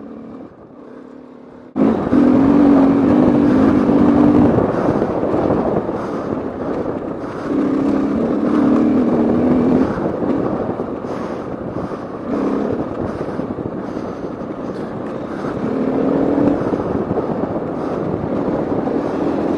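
KTM 450 EXC-F single-cylinder four-stroke enduro engine under way on a dirt track. It is quieter at first, then gets much louder suddenly about two seconds in as the engine opens up, and the engine note holds steady in stretches under a loud rushing noise of wind and the ride.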